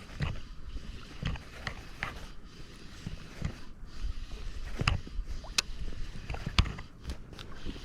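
Irregular clicks and knocks from fishing gear being handled aboard a kayak, over a low rumble of wind and water.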